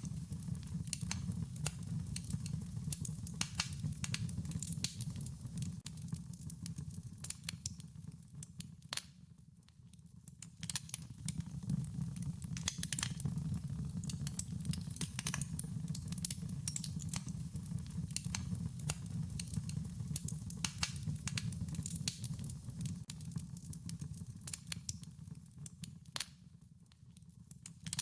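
Wood fire crackling, with frequent sharp pops and snaps over a steady low rumble. The crackling eases briefly about a third of the way in and again near the end.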